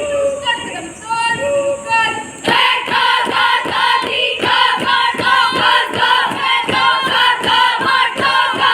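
A group of cadets singing or chanting together in unison. About two and a half seconds in, a steady beat of sharp strikes joins them, about three a second.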